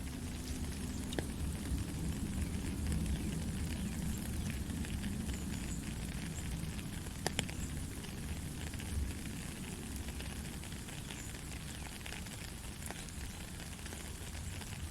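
Heavy rain falling steadily, with many drops crackling and pattering close by over a low rumble; one sharper drop hit about seven seconds in.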